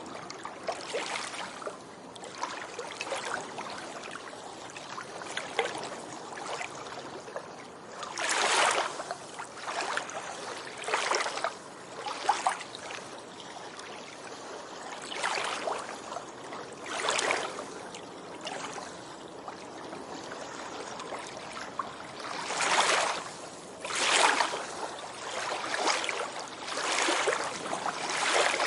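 Ocean surf washing onto a beach: a constant wash of water with irregular louder surges as waves break and run up the shore, the strongest about eight seconds in and again in the last third.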